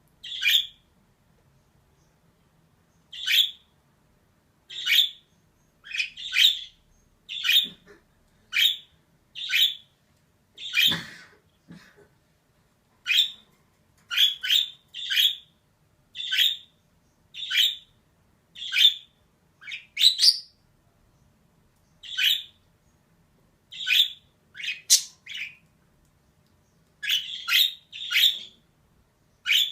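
Female budgerigar giving short, sharp chirping calls, about one a second with brief pauses, including a gap of about three seconds near the start.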